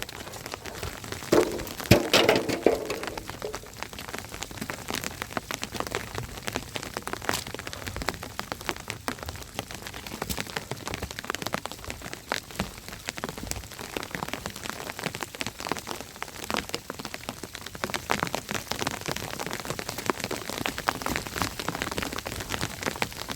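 Steady rain falling, with many separate drops striking a surface. About two seconds in there is a brief louder burst.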